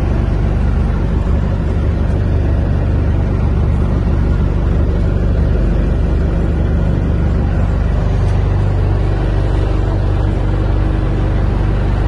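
Canal boat's engine running steadily at cruising speed, a continuous low drum with no change in pace.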